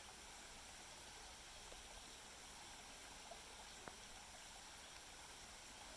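Near silence: a steady faint hiss, with a few faint soft ticks as dry leaves are set down, the clearest about four seconds in.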